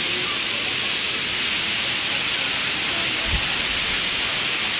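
Waterfall rushing: a loud, steady hiss of falling water, with a brief low thump about three seconds in.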